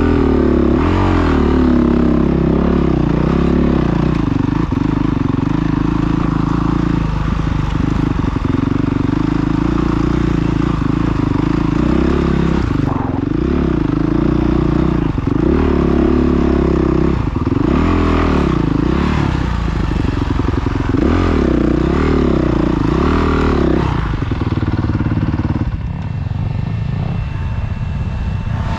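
Dirt bike engine revving up and down over and over as the throttle opens and closes, its pitch rising and falling every second or two. It drops to a lower, quieter note near the end.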